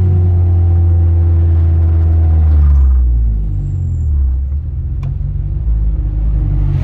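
Car engine heard from inside the cabin, its note falling slowly over the first three seconds as the car slows, then settling into a lower, steady rumble.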